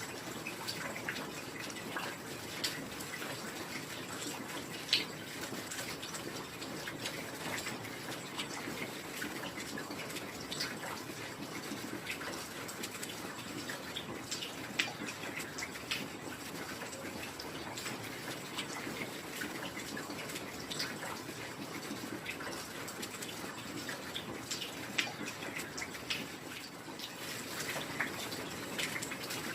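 Steady heavy rain: an even hiss with scattered sharp drops and drips standing out every few seconds.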